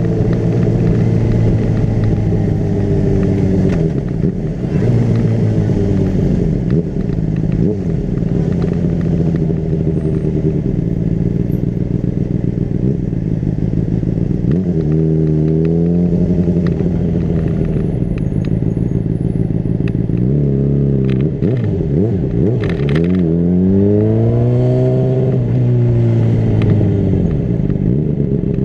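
Honda CBR600RR's inline-four engine under way on the road. Its pitch falls off early, climbs again about halfway through, and rises and drops back near the end as the throttle opens and closes.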